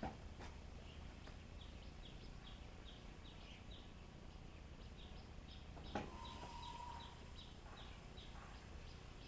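Repeated short high chirps from an animal, about three a second, over a low steady rumble, with a single knock about six seconds in.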